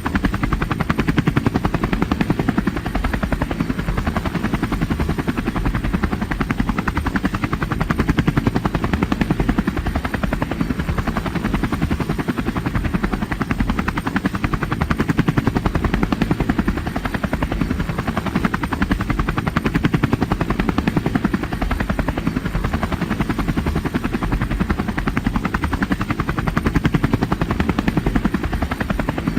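Helicopter rotor running steadily with a fast, even chopping beat over a low rumble.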